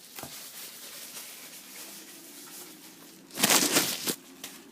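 Rustling and crinkling of packaging as the kit's parts are handled, with one louder burst of rustling about three and a half seconds in.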